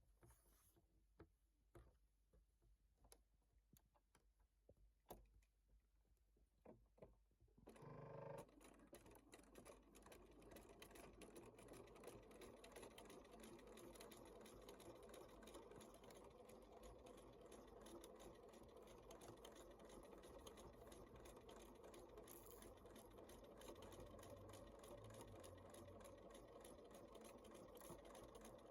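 Sewing machine, heard faintly: a few scattered clicks, then about eight seconds in the machine starts and runs steadily, stitching.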